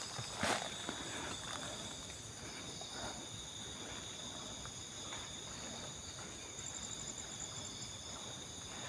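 Steady chorus of night insects, several high-pitched trills sounding at once, with a faster pulsing trill joining in the second half. A single footstep-like crunch sounds about half a second in.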